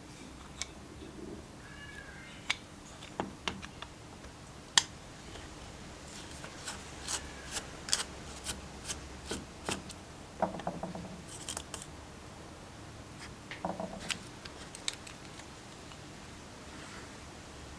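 Scattered sharp clicks and snips of small hand tools at work, irregularly spaced, with a loud snap about five seconds in and a few short buzzy rasps later on.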